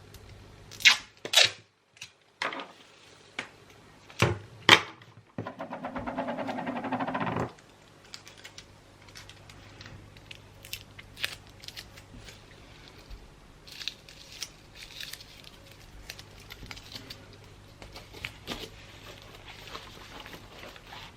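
Gift-wrapping handling sounds: a handful of sharp clicks and snaps, then a rasping pull lasting about two seconds, then soft paper rustling with small ticks.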